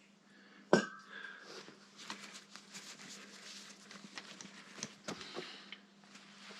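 Handling noise from work on motorcycle parts: a sharp click about a second in, then scattered light clicks and rustles, over a steady faint low hum.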